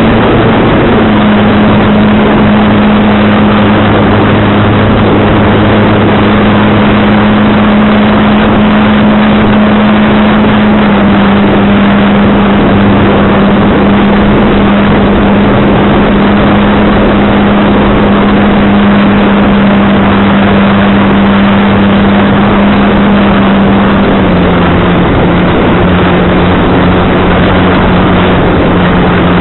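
Strong wind buffeting the microphone, making a loud steady rushing noise throughout. Under it runs a steady low hum that drops slightly in pitch in small steps three times.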